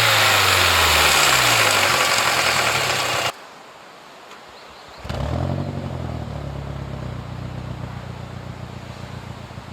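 Turbocharged 2.3-litre four-cylinder engine of a 2006 Mazda 6 MPS coming down from a rev, its pitch falling, until the sound cuts off suddenly about three seconds in. After a short quiet gap the engine revs up briefly, then settles to a steady idle that slowly grows quieter.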